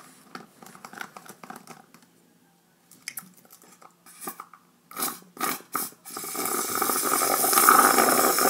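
Wet mouth sounds of someone eating a sticky mix of syrup, sprinkles and citric acid off their fingers: scattered clicks, smacks and chewing. From about six seconds in, a louder steady rushing noise takes over.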